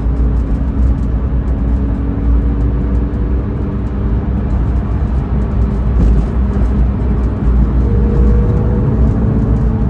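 Race car driving, heard from inside the cabin: a loud, steady engine drone with a heavy low rumble and road noise, its pitch drifting slightly.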